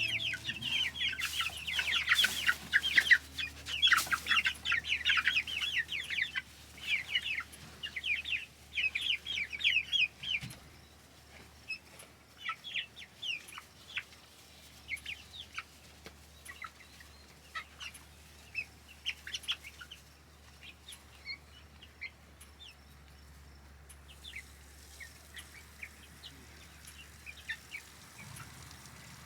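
A group of young meat birds peeping and chirping. The calls are dense and loud for about the first ten seconds, then thin out to scattered peeps.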